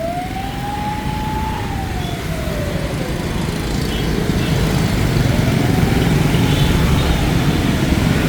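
Ambulance siren wailing in slow rises and falls over dense motorbike traffic; the engine rumble grows louder toward the end as the siren fades.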